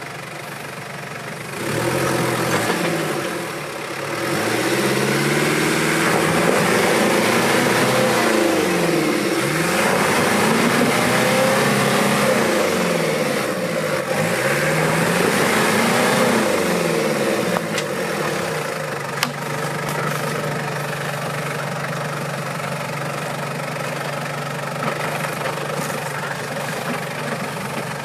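Off-road 4x4's engine revving hard in repeated rising and falling sweeps as it pushes through the terrain, then settling to a steadier, lower running note about two-thirds of the way in. A single sharp knock comes shortly after the revving ends.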